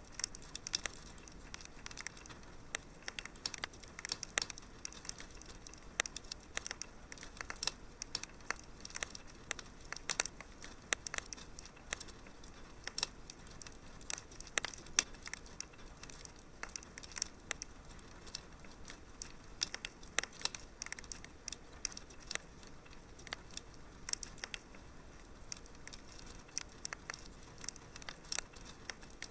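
Wood fire crackling in a fireplace: many irregular sharp snaps and pops over a faint steady hiss.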